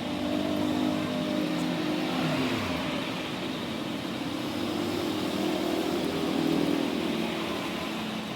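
A motor running steadily with a hum of several tones. One tone falls in pitch about two to three seconds in.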